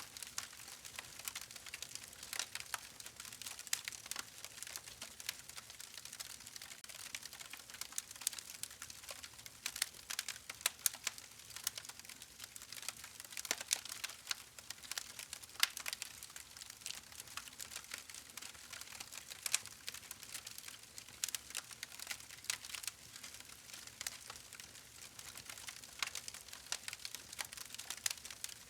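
Wood fire crackling: a dense, irregular stream of small sharp pops and snaps over a soft hiss.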